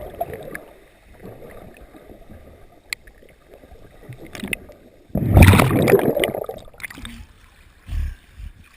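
Seawater sloshing and gurgling against a GoPro camera's waterproof housing while swimming, with one loud rushing splash about five seconds in lasting nearly two seconds.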